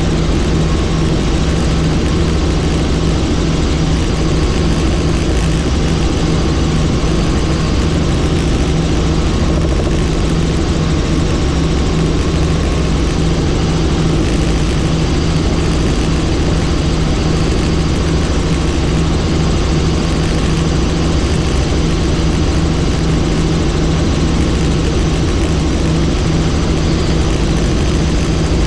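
Helicopter in flight: loud, steady rotor and engine noise with a constant low hum.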